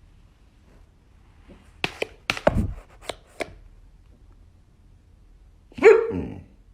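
A quick run of sharp knocks and thumps, then a single dog bark that falls in pitch.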